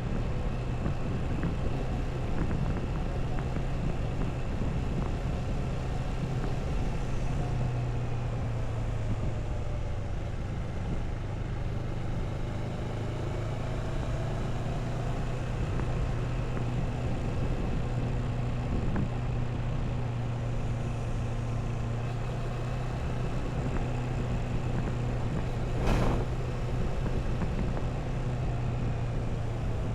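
Motorcycle engine running steadily at cruising speed, with road and wind noise. A single sharp knock comes near the end.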